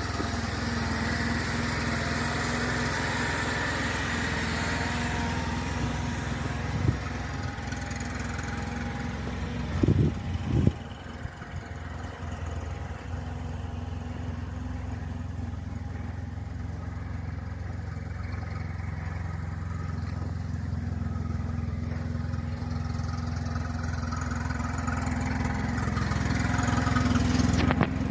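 Oka two-cylinder petrol engine of a homemade all-terrain vehicle idling steadily, with a few short knocks about 7 and 10 seconds in, and growing louder near the end.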